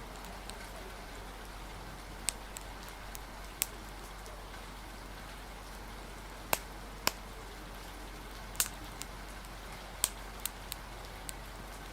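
Steady hiss of rain and wind with a wood fire crackling: about ten sharp, brief pops at irregular moments.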